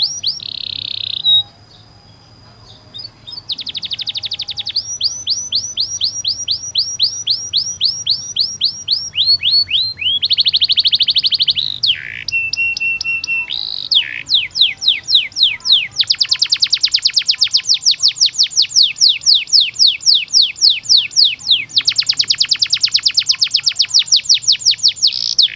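Domestic canary singing long rolls of rapidly repeated falling whistled notes, broken by buzzy trilled phrases, with a short pause about a second and a half in.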